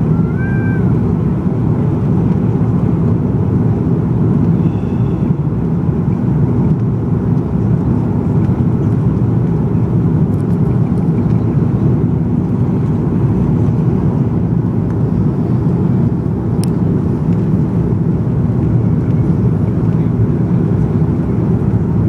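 Steady, loud low rumble inside an Airbus A330-200's passenger cabin, from the engines and airflow.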